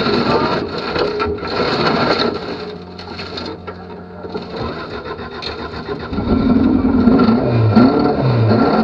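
Toyota Corolla rally car's engine idling, then revved repeatedly in rising and falling pulls from about six seconds in, as the car, stuck off the road after a crash, is driven out.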